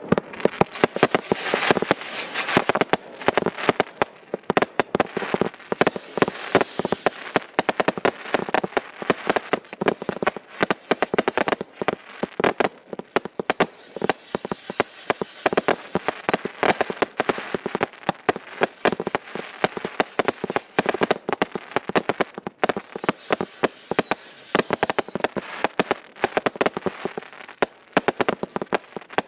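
Two Brothers consumer firework cakes, Neutron Bomb among them, firing together: a rapid, unbroken barrage of shots and bursting reports. Three short high-pitched streaks rise over the barrage at roughly even spacing.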